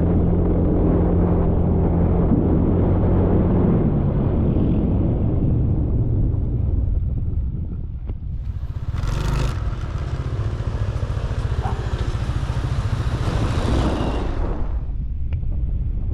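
Motor scooter engine running on the road, with a steady note that eases off a few seconds in. In the second half a loud rushing noise joins the engine for several seconds, then fades.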